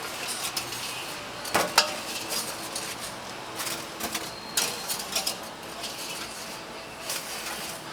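Metal utensils and pans clinking and clattering in a street-food stall's kitchen, with scattered sharp knocks, the loudest about a second and a half in and again near the middle.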